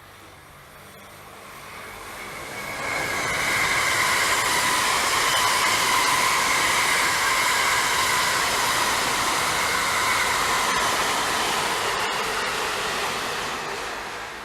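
A train passing close by: the sound builds over about three seconds and holds loud, with wheel-on-rail noise and a steady high singing tone, then fades away near the end.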